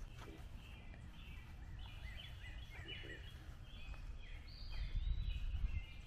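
Several birds singing together outdoors, many short overlapping chirps and trills, over a low rumble on the microphone that grows louder near the end.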